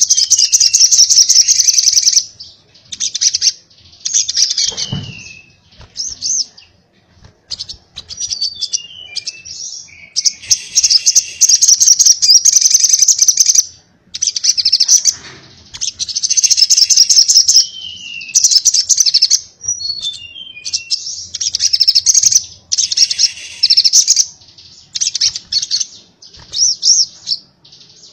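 Sogon (sogok ontong) sunbird singing its fast 'konslet' song: bursts of rapid, high-pitched chattering trills a few seconds long, broken by short falling whistled notes.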